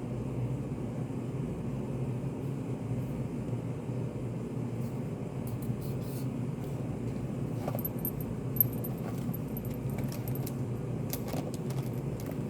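Study cafe room tone: a steady low hum with scattered small clicks and taps, and one sharper click about two-thirds of the way through.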